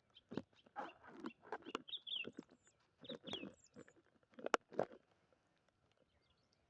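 Faint scattered knocks and rustles, with a few short bird chirps in the middle; it goes almost quiet for the last second and a half.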